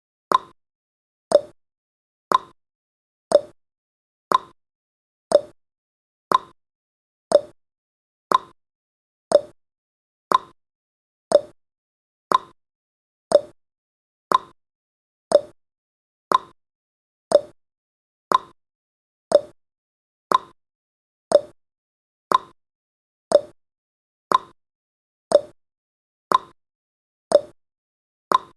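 Countdown timer's ticking sound effect: a short, sharp click once every second, at an even, unchanging pace.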